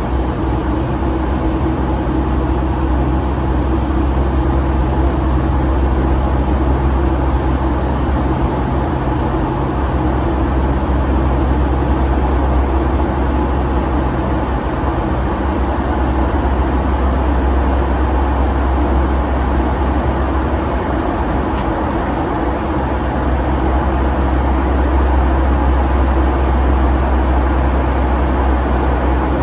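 Steady low drone of a Boeing 757-200's jet engines and airflow, heard from inside the passenger cabin.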